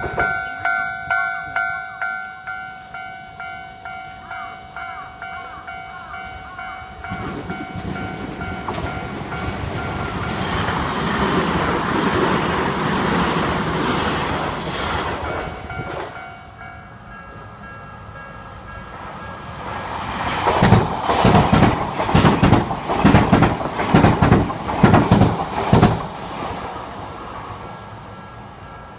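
Japanese railroad crossing warning bell clanging at about two strikes a second, fading. A train then passes with a swelling rumble, and a train's wheels clack loudly and rhythmically over the rail joints as it goes by.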